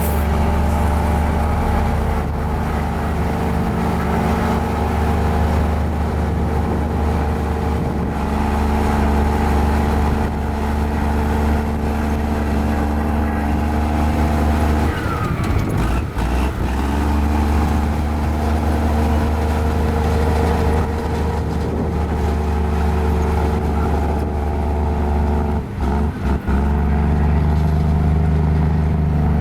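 Small Komatsu bulldozer's diesel engine running steadily while it works, its pitch shifting briefly about halfway through and its level dropping for a moment twice near the end.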